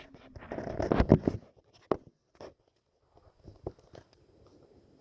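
Handling noise: a rustling scrape in the first second or so, then a few scattered short clicks and knocks.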